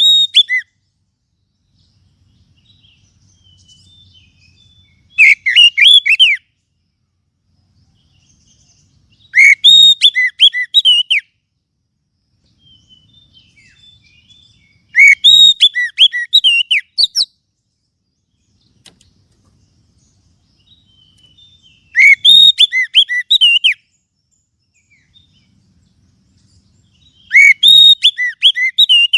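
Oriental magpie-robin (kacer) singing: loud bursts of quick, varied whistled phrases, each a second or two long, repeated about five times at roughly six-second intervals with short pauses between.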